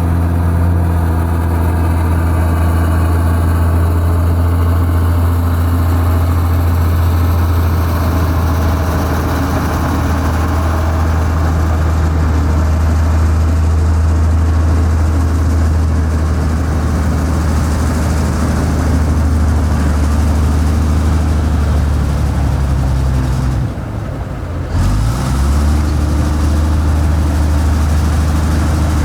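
Heavy diesel engine of construction machinery running steadily at a low, even pitch. About 24 seconds in, the sound briefly drops away for about a second, then the engine note comes back.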